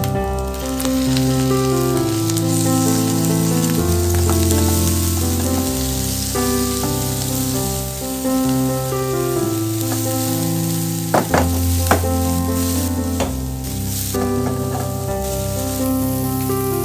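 Diced pork belly sizzling in hot oil in a non-stick wok, stirred with a silicone spatula, with a few sharp scrapes about eleven seconds in. Background music plays throughout.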